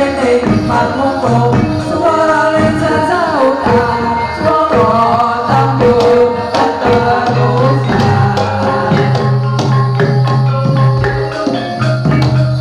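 Live jathilan accompaniment music: a gamelan-style ensemble of pitched percussion and drums playing a steady, dense rhythm.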